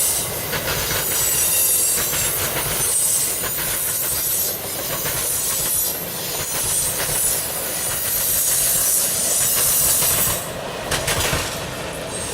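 Train rolling past: a steady rumble of wheels on rail, with clicks as the wheels cross rail joints and a high-pitched wheel squeal that eases off about ten seconds in.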